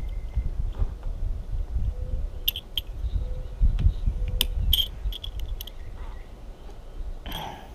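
Scattered light clicks and taps over a low rumble of handling noise, as a watermaker membrane housing is worked back into place.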